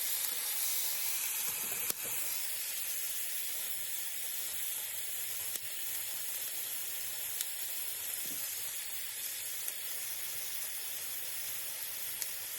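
Chicken thighs frying in a pan with a little oil, a steady high sizzle as they brown and begin to render their own fat, with a few faint pops.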